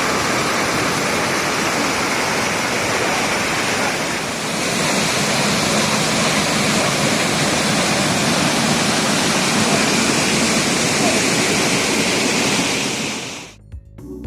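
Loud, steady rush of falling water from a waterfall. It cuts off abruptly near the end, and music comes in.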